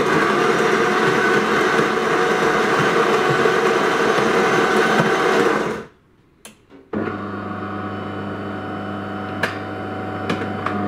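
DeLonghi ECAM fully automatic coffee machine brewing a coffee. Its grinder runs loudly for about six seconds and stops. After a short pause the pump hums steadily, with one sharp click partway through. The machine is running a normal brew cycle with its brew unit freshly cleaned.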